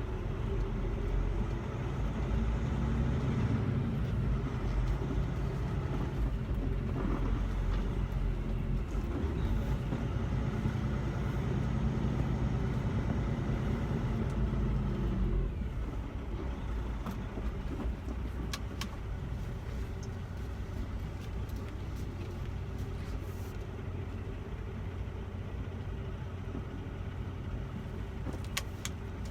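Semi-truck diesel engine heard from inside the cab, running under way with a couple of slight rises in pitch, then dropping to a quieter, lower sound about halfway through as the truck eases off. A few faint clicks in the second half.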